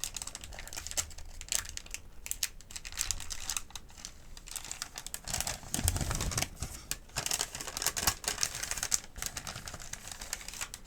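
Paper medication-guide sheets crinkling and rustling as they are handled, a dense run of sharp crackles, with a heavier soft bump about six seconds in.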